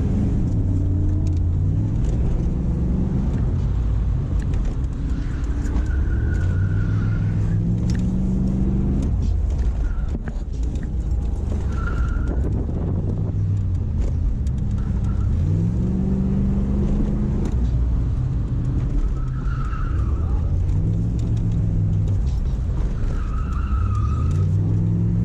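A car engine revved repeatedly, each rev climbing in pitch and falling back, about five times. A brief high squeal comes in with several of the revs.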